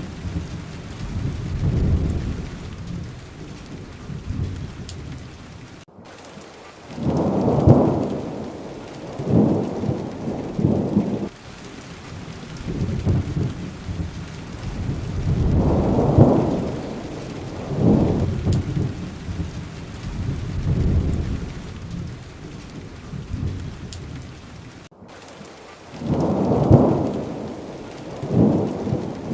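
Steady rainfall with repeated low rolls of thunder, each swelling and fading over a second or two. The sound cuts out for an instant twice.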